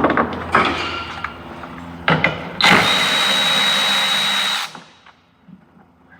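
A handheld power tool runs steadily for about two seconds with a thin high whine, then stops sharply, as it works on the windshield wiper arm's nut. A few clicks and knocks of tool handling come before it.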